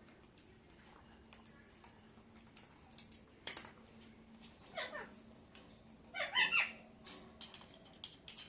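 Pet parrot calling: one short call falling in pitch about five seconds in, then a louder quick burst of squawky chatter a second later, amid faint scattered clicks and taps.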